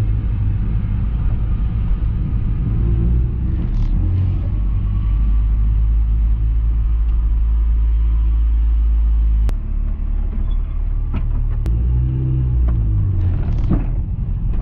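Honda Civic engine and exhaust heard loud from inside the cabin, running with a steady low rumble at low speed. About ten seconds in the rumble drops and a few sharp clicks sound, then the engine note rises and shifts as the car pulls away near the end.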